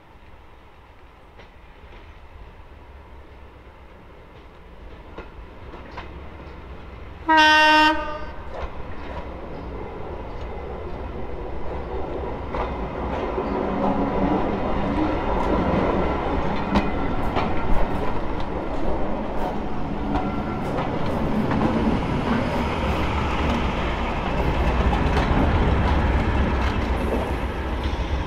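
A train gives one short, loud blast on its horn about seven seconds in. It then draws steadily closer and louder, with the clatter of its wheels over the rail joints.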